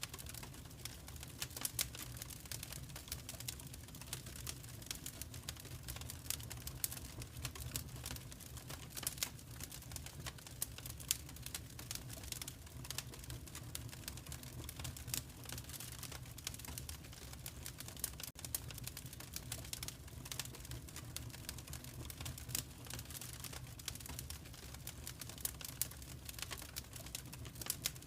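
Fireplace fire crackling: a dense run of irregular sharp pops and snaps over a steady low rumble.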